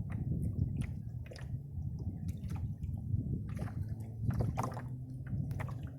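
Water sloshing and dripping around a canoe, with scattered small drips and knocks over a steady low rumble.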